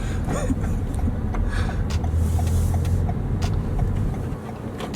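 Road and engine noise inside the cabin of a moving 2019 Toyota Camry XSE: a steady low rumble that eases off near the end, with a faint regular ticking.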